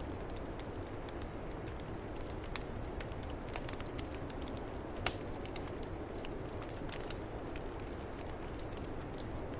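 Wood fire crackling in a fireplace, scattered sharp pops over a steady low rush of snowstorm wind; the loudest pop comes about five seconds in.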